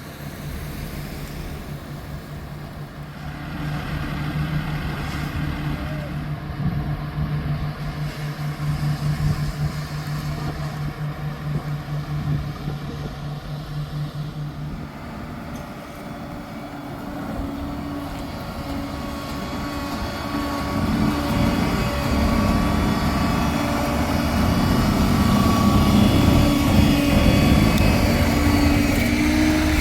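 Heavy work-vehicle engines running: a steady, pulsing hum for about the first half, then a higher-pitched engine that grows louder through the second half, dipping in pitch right at the end.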